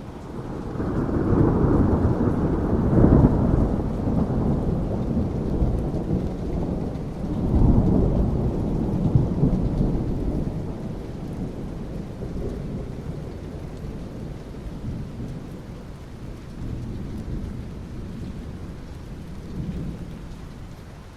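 Thunder rumbling over steady rain. The rumble swells early, swells again about seven seconds in, then fades to softer rolls.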